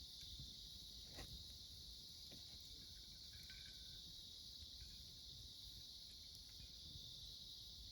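A steady, high chorus of autumn insects calling, with a few sharp crackles from a wood campfire, the clearest about a second in.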